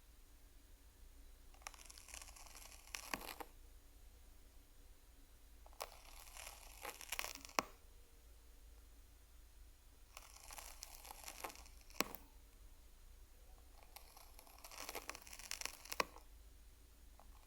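Crinkling, crackling rustle in four bursts about four seconds apart, each ending with one or more sharp clicks.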